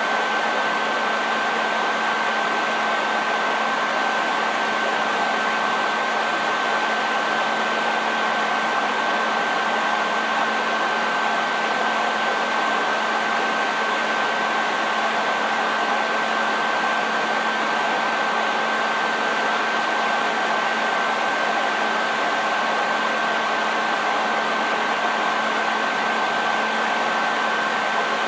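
Electric hair dryer running continuously: a steady rush of air with a constant high whine and a low hum from its motor, unchanging throughout.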